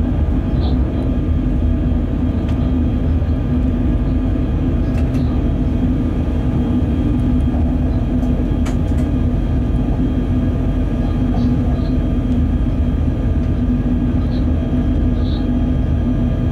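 Steady running noise in a freight train's locomotive cab at speed: a low rumble of wheels on rail under a constant hum.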